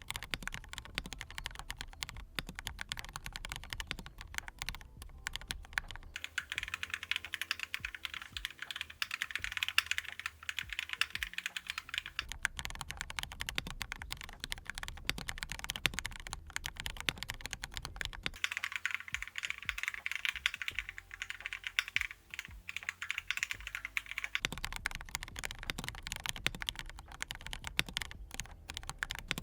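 Continuous typing on a Monstargear Aqua67 mini acrylic mechanical keyboard with fully lubricated low-noise switches: a dense, steady run of key clacks. Twice, for several seconds each, the clacks turn thinner and brighter.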